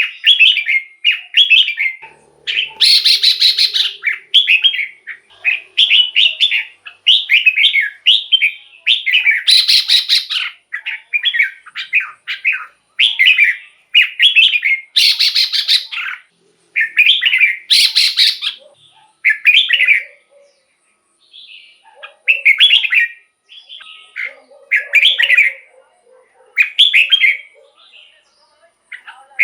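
Red-whiskered bulbul singing: short whistled phrases repeated in quick succession, with a few louder, harsher notes among them. The phrases come further apart after about two-thirds of the way through.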